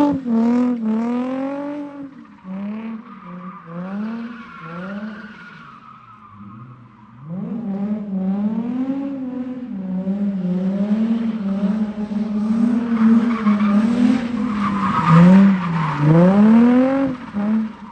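A drifting car's engine revving up and down in quick swells as the throttle is worked, with tyres squealing. It gets louder about seven seconds in and stays loud to near the end.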